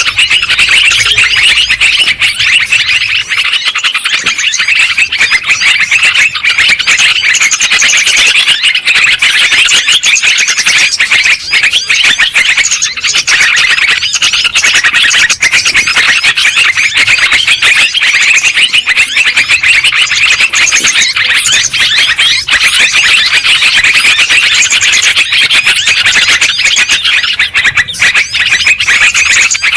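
Yellow-vented bulbuls calling noisily, many birds at once in a dense, continuous chatter.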